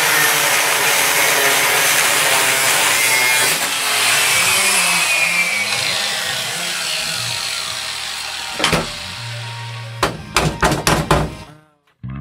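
Angle grinder cutting through the sheet steel of a VW Beetle's heater channel, a loud steady grinding whose pitch wavers as the disc bites, fading over the second half. Several sharp metallic knocks follow near the end before the sound cuts off.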